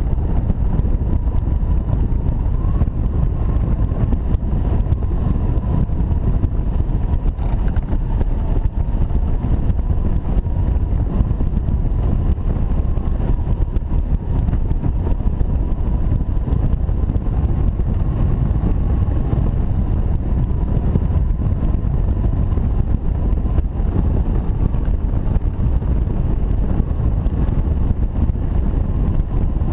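Strong wind and airflow buffeting the microphone in flight on a hang glider: a steady, loud low rumble with a thin, constant tone above it.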